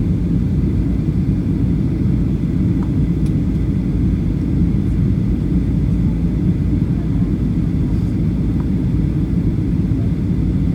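Cabin noise inside a Boeing 737-800 after landing: a steady low rumble of the engines and airframe with a faint hum above it.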